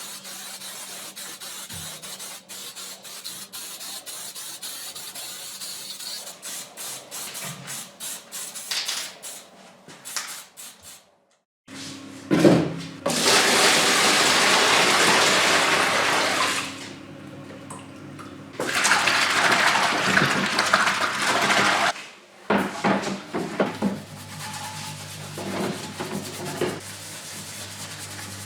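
Water spraying onto plastic parts being washed, in two long loud bursts of about three seconds each, then a few short ones. Before them come light clicks and rubbing of parts being handled.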